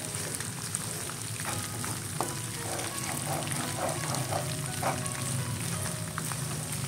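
Grated galangal and spice paste frying in hot oil in a wok: a steady sizzle with fine crackling, with a wooden spatula now and then scraping and knocking against the pan as it stirs.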